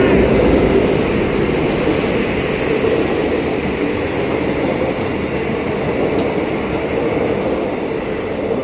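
A diesel-hauled train, two diesel-electric locomotives with their carriages, running past with a steady rumble that slowly fades as it draws away.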